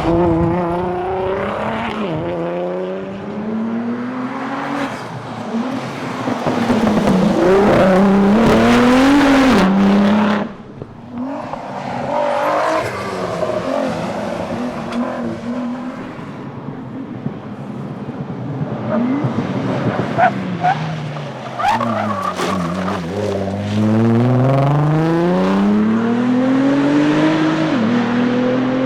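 Nissan R35 GT-R's twin-turbo V6 being driven hard at race pace, its pitch climbing and dropping again and again through gear changes and corners. The engine note falls away sharply about ten seconds in, and near the end it pulls through one long rise in revs.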